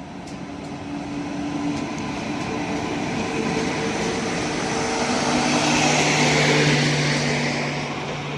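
Mumbai suburban electric multiple-unit (EMU) local train running past, growing louder to a peak near the end, with a steady hum under the rushing noise of the train.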